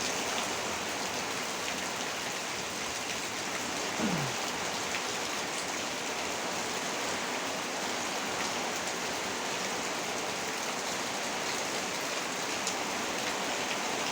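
Heavy rain falling steadily, a dense even hiss of rain on surfaces, with a brief low falling tone about four seconds in.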